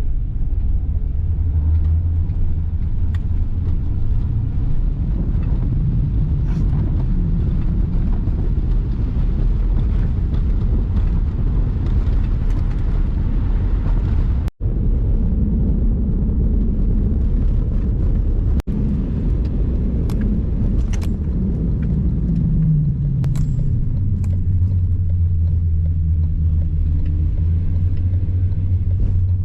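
Camper van being driven: a steady low rumble of engine and road noise, with the engine note briefly shifting in pitch about three quarters of the way through. The sound cuts out for an instant twice around the middle.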